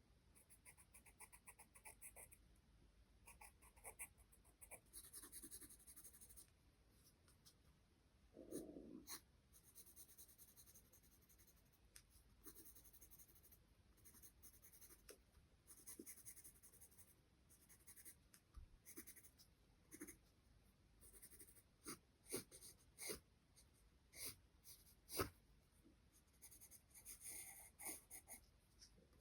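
Faint scratching of charcoal pencil strokes on drawing paper, in short, quick strokes, with sharper ticks toward the end.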